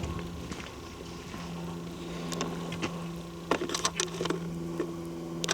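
Footsteps crackling on twigs and leaf litter, a cluster of sharp clicks about three and a half to four and a half seconds in, over a steady low hum.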